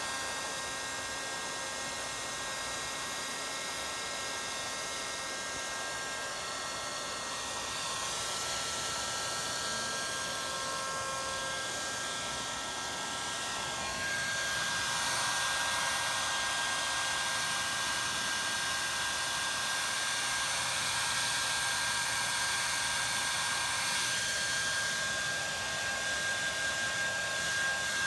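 Hair dryer blowing steadily, with a thin motor whine over the rush of air. About halfway through it gets louder.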